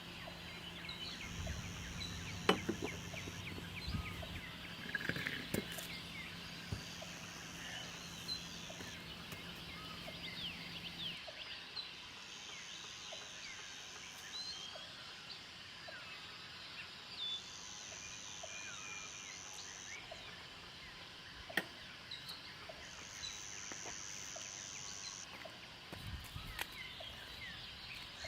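Faint outdoor ambience of many small wildlife chirps, with a high buzzing call about two seconds long that repeats roughly every five seconds. A low steady hum underneath stops about eleven seconds in.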